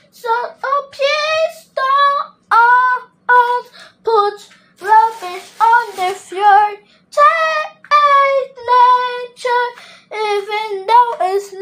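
A child singing alone without accompaniment, a string of short, high sung phrases with brief breaks between them.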